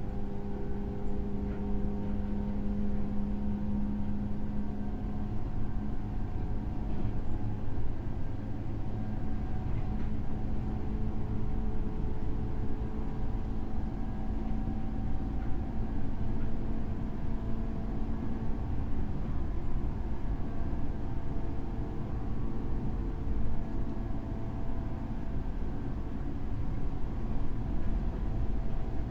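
Running sound inside a JR 103-series electric train motor car: the MT55 traction motors hum with steady tones over the rumble of wheels on rail. The strongest hum fades about two-thirds of the way through.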